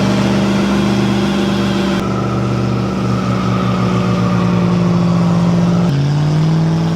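Vehicle engine held at steady high revs, its pitch stepping down slightly about six seconds in.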